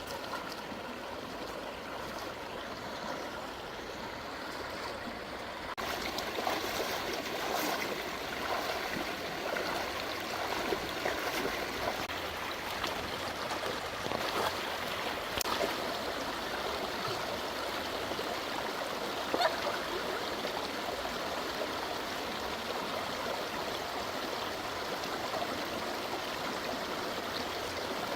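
Stream water flowing steadily, rushing and trickling, louder from about six seconds in, with a few brief sharp sounds along the way.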